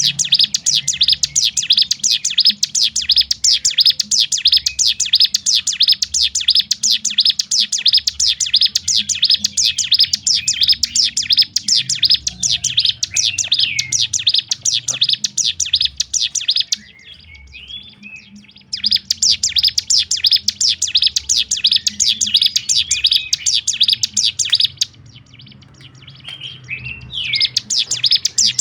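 Ciblek gunung (a prinia) singing a fast, dense run of sharp repeated notes with a buzzing roll. The run breaks off twice into a few softer calls, about two-thirds of the way through and again near the end.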